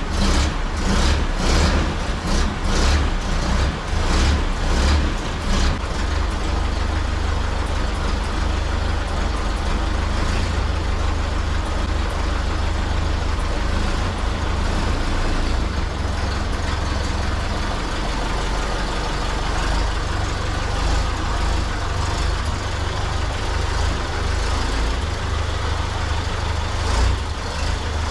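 1932 Ford Model B's engine running on a drive: a heavy low rumble with road and wind noise over it. For the first six seconds a regular beat about twice a second sits on top, then it settles into a steady drone.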